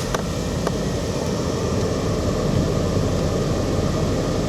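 Toyota Avensis T210 engine running steadily just after it has been started, a loud even rushing hum from inside the car.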